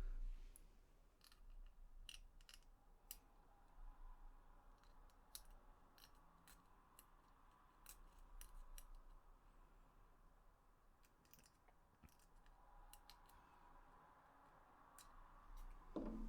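Faint, irregular small clicks and snips from hand work on a PS4 controller's plastic parts with small tools.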